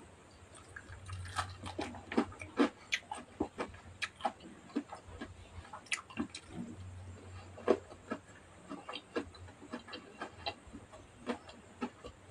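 Close-up eating sounds: a person chewing, with irregular wet mouth clicks and lip smacks coming several times a second.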